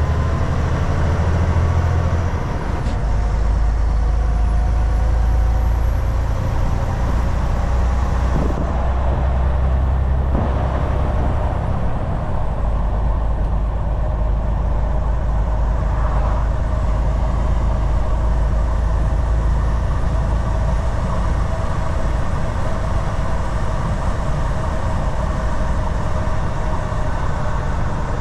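Volvo VNL 760 semi truck's diesel engine running steadily under way, with road and tyre noise; the engine note shifts slightly about two and a half seconds in.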